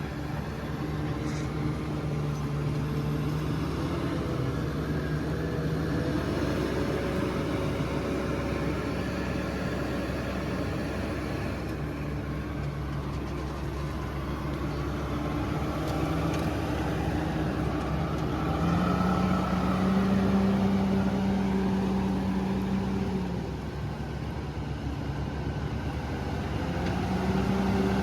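Diesel engine of a heavy logging machine (bulldozer or excavator) running under varying load, its pitch stepping up and down. It revs higher and louder about two-thirds of the way in, then drops back.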